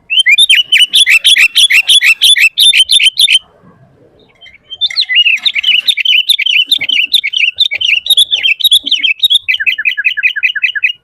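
Sooty-headed bulbul (kutilang) singing loudly in rapid chattering phrases. A burst of about three seconds is followed by a short pause, then a longer run of about six seconds that ends in a quick series of falling notes.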